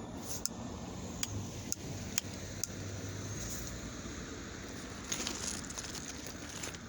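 Low, steady engine hum with several sharp clicks in the first few seconds, and rustling near the end.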